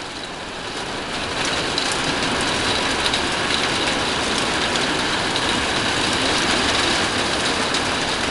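Very heavy monsoon rain pouring down in a steady, dense hiss, growing louder about a second in and then holding.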